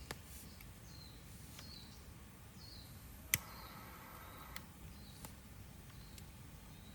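Wood campfire crackling faintly, with a few sharp pops, the loudest about halfway through. Short high chirps come and go alongside.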